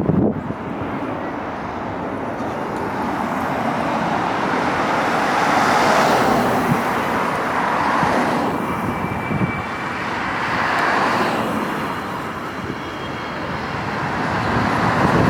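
Widebody jet airliner's engines roaring as it climbs out overhead after takeoff, a broad roar that swells and eases, with a faint high whine partway through.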